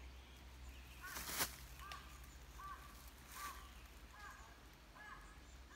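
A bird repeats a short, arched call note about once every 0.8 seconds, faintly. Two brief rustles of undergrowth come about a second and a half in and again near the middle.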